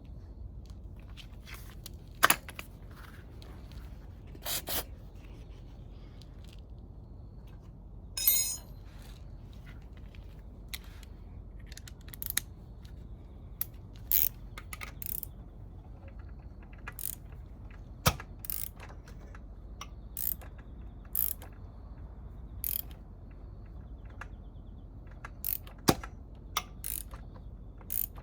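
Hand tools working on a motorcycle engine during disassembly: scattered sharp metallic clicks and short rasps, with a quick run of rapid ratchet-like clicks about eight seconds in.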